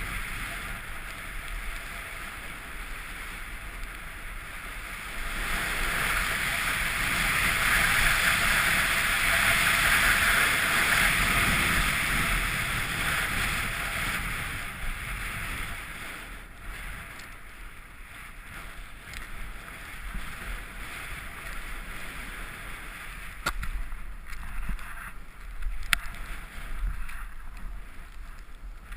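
Rushing water, swelling loudest through the middle and then easing off, with a few sharp clicks near the end.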